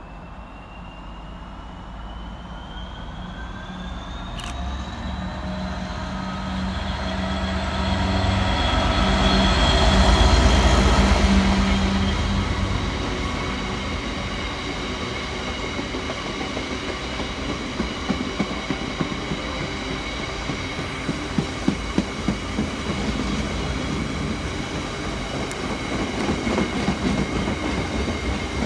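Class 66 diesel-electric freight locomotive climbing the gradient as it approaches and passes, its engine note rising and loudest about ten seconds in. A long train of freight wagons then rolls by with regular clicks as the wheels cross rail joints.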